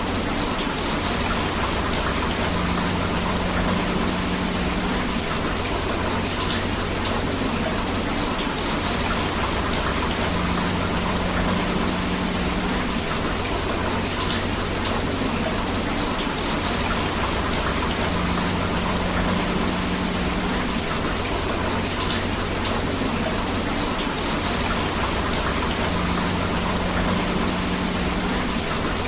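Steady rain together with a running river, an even unbroken wash of water noise. A faint low hum comes and goes about every eight seconds.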